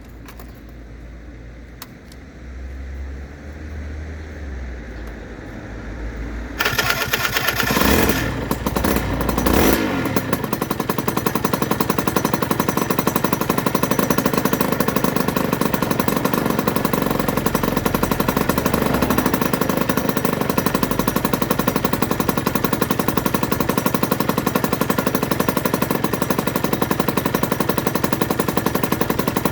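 A 2008 Aprilia RS125's single-cylinder two-stroke engine bursts into life about six seconds in, after a low rumble. It is blipped up and down a couple of times, then idles steadily with a fast, rattling two-stroke beat.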